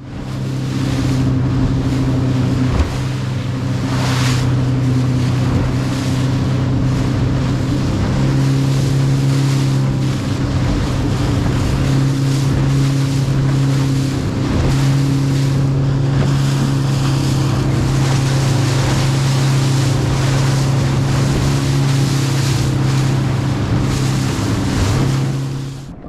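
Motorboat engine running at a steady cruising speed with a constant low hum, the hull moving through choppy water and wind buffeting the microphone. The engine falls off suddenly at the end.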